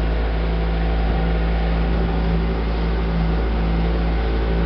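Motorboat engine running steadily at speed, a constant low drone with rushing noise over it, the boat being pushed hard.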